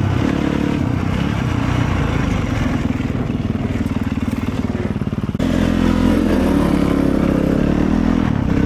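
Motorcycle engine running steadily, its sound changing abruptly about five seconds in.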